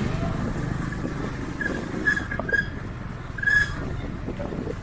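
Street traffic with a motor vehicle running as a low, steady rumble. Over it come a few short high-pitched beeps or chirps, about two seconds in and again, louder, at about three and a half seconds.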